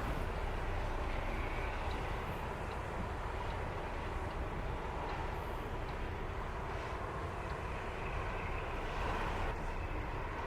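A ferry's engines running steadily: a continuous low rumble, with a faint steady whine above it.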